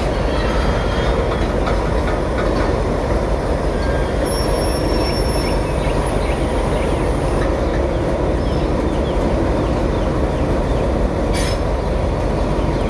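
Freight train rolling past on the rails: a steady rumble and clatter of wagons, with a thin high squeal for a few seconds in the middle and a short sharp click near the end.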